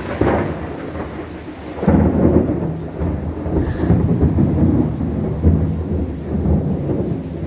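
Thunder after a lightning flash: a loud low rumble that breaks suddenly about two seconds in and rolls on, rising and falling, over steady rain.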